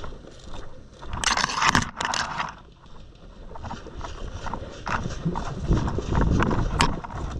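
Rustling and scraping against a body-worn camera's microphone, then uneven footsteps and gear knocking, with scattered sharp clicks.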